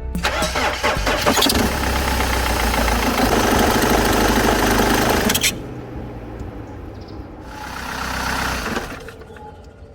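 BMW 520d M47 four-cylinder diesel engine starting and running, with the loud engine sound cutting off about five and a half seconds in. A shorter burst of similar noise swells and fades near the end.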